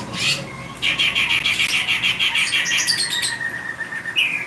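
A songbird singing: a few sharp chirps, then a fast, even trill for about two and a half seconds starting about a second in, ending with a short higher call near the end.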